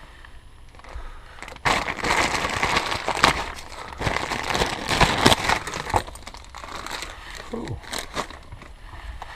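Crinkling and rustling of something being handled, loudest from about two to six seconds in, with a few sharp clicks.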